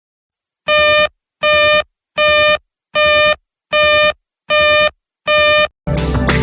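Seven identical buzzy electronic beeps, each a little under half a second long and about 0.8 s apart: the WeatherSTAR XL alert tone announcing a flash flood warning. Music starts near the end.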